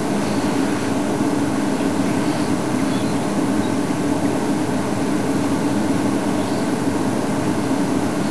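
Safari game-drive vehicle's engine running steadily, a constant hum with no breaks.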